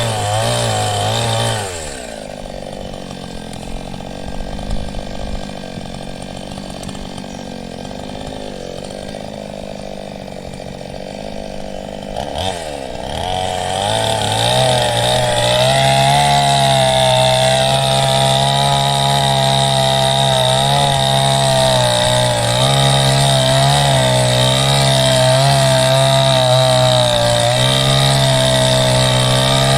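Ryu chainsaw with a 22-inch bar: the engine drops from full revs to idle about two seconds in and idles for about ten seconds. It then revs back up and runs at high speed with a wavering pitch, as under cutting load in hard wood, on a chain called blunt.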